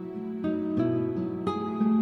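Gentle background music: a plucked guitar playing a slow, tender melody, the notes changing about every half second.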